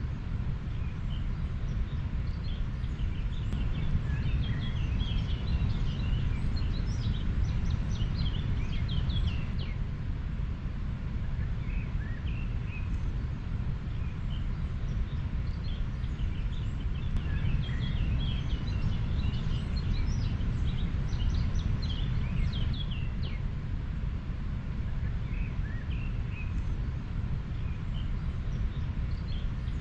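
River water running as a steady low rush, with small birds chirping over it in two busy spells, the first a few seconds in and the second about two-thirds of the way through.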